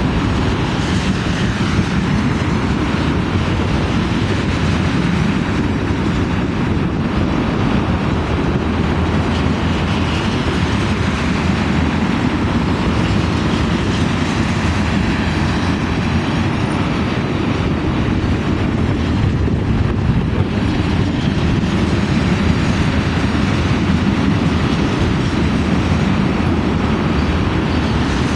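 Norfolk Southern ethanol train running past: a steady rumble of wheels on the rails.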